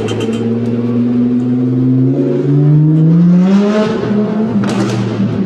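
A motor vehicle engine accelerating, its pitch rising steadily over a couple of seconds, with a brief hissing rush near the end.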